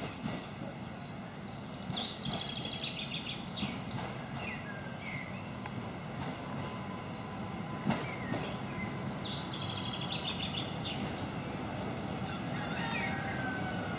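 Newag Impuls electric multiple unit approaching slowly, a low steady rumble growing gradually louder. A bird sings a rapid high trill twice over it, about two seconds in and again about nine seconds in.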